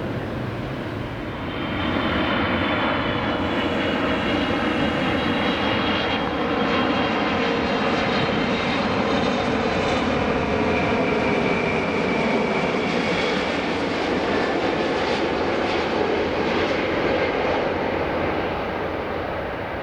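Airbus A330 jet airliner coming in to land close overhead, its jet engines running with a high whine over a steady roar. The sound swells about a second and a half in, and a lower tone slowly drops in pitch as the aircraft passes.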